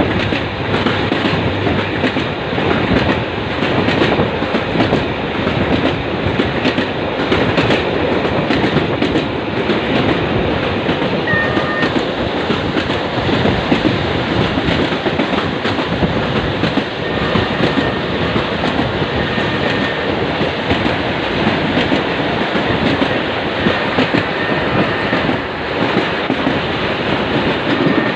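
Egyptian suburban passenger train running at speed, with steady rumble and wheels clattering over the rail joints.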